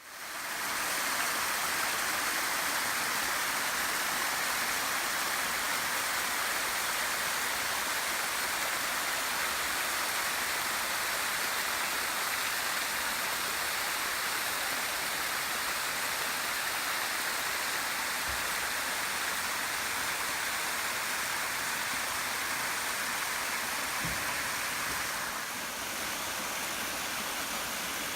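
Waterfall pouring steadily: an even rush of falling water that shifts slightly in tone near the end.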